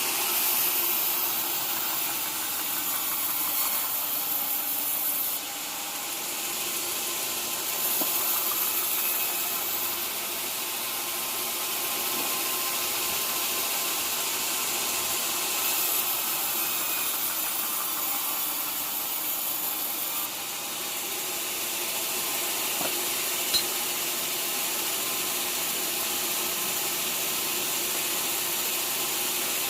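Sawmill saw running steadily through teak, with a high hiss that comes and goes in stretches of a few seconds and a single sharp click near the end.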